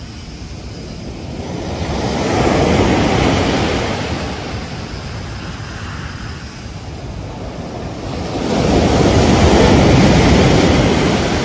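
Ocean waves breaking on a beach: two waves swell up and wash in, about two seconds in and again about eight and a half seconds in, over a steady surf hiss.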